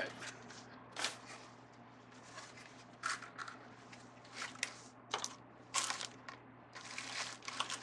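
Wired craft ribbon being handled: scattered short crinkly rustles and crunches, with a faint steady low hum underneath.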